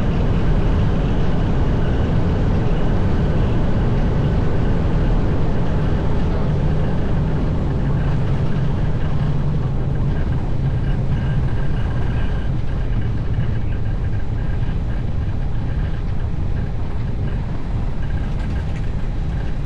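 Airbus airliner's engine and airflow noise in the cockpit during the landing rollout after touchdown, a steady low rumble that eases off slightly as the aircraft slows.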